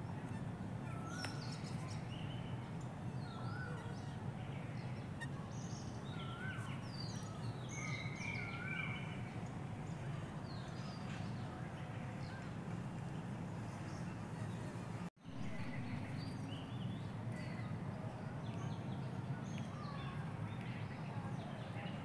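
Several birds calling and chirping in short, scattered notes over a steady low background hum. The sound drops out for an instant about fifteen seconds in.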